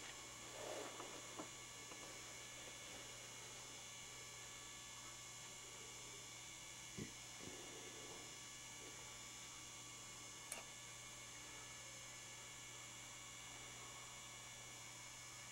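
Faint, steady electrical mains hum, with a few soft clicks about a second in, about seven seconds in and near ten and a half seconds.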